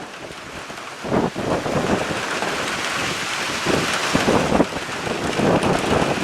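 Steady rain with wind in a storm, with gusts now and then buffeting the microphone.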